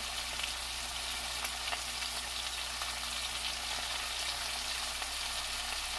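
Andouille sausage and sliced cabbage frying in an enameled pan, a steady sizzle.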